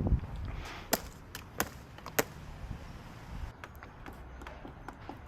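Buttons on a Gold Star air conditioner's control panel being pressed: a few sharp clicks, about one every half second to second, then fainter taps.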